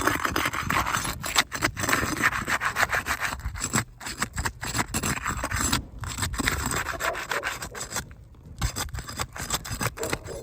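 Gritty rubbing and scraping of asphalt roof shingles being pried up, their seal strips pulled loose from the shingles below. The strokes come in spells with brief pauses between them.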